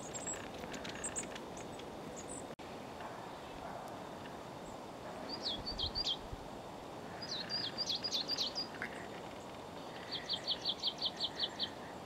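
Long-tailed tits calling: a few thin, very high calls near the start, then short downslurred notes in small groups, and near the end an even run of about ten quick notes, over a steady background hiss.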